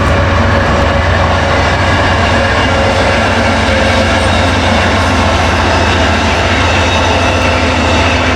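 Steady rumble of a passing train.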